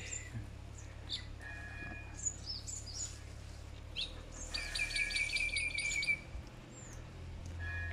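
Wild birds chirping, with short scattered calls and, from about halfway through, a quick run of repeated notes lasting over a second, over a steady low rumble.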